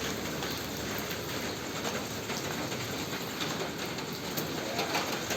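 Steady rain falling: an even hiss with scattered light ticks.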